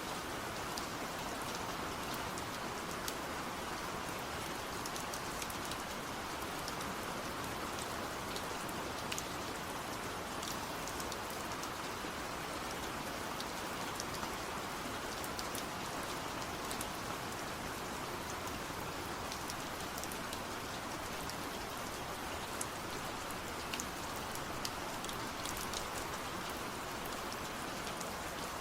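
Steady rain falling, a continuous even hiss with scattered sharper drop ticks.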